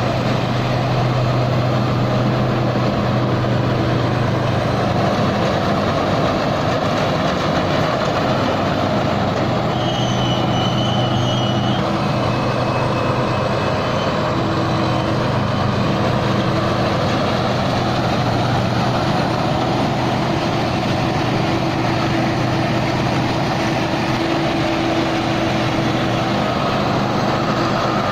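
Tai Seng rice combine harvester running steadily under load as it harvests through a muddy patch of paddy, its engine and machinery making a constant low drone.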